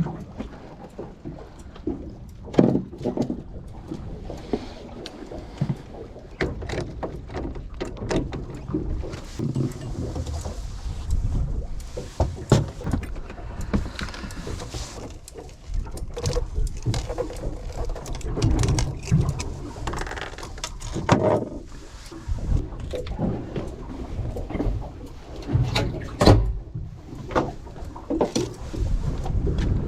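Sounds aboard a small fishing boat on the water: irregular knocks and thumps with swells of splashing and rumbling water noise.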